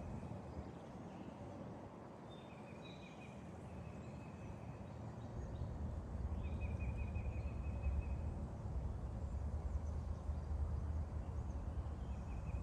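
Wind buffeting the microphone over a steady hiss of distant highway traffic, the low buffeting growing stronger about halfway through. Short high trills, like a small bird's, sound three or four times.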